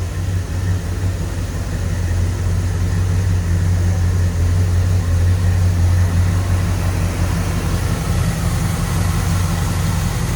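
1971 Chevrolet El Camino Super Sport's 350 small-block V8 idling steadily with a deep, even hum.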